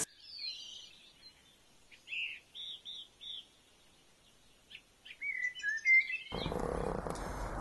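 Birds chirping: a string of short high chirps, then a quick run of falling and rising notes. A steady low hum comes in near the end.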